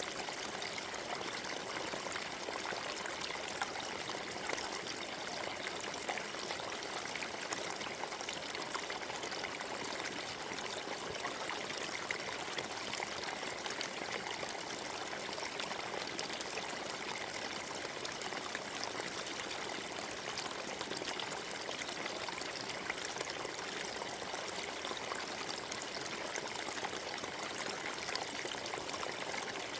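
Forest stream running steadily over stones, a continuous babble of small splashes and trickles.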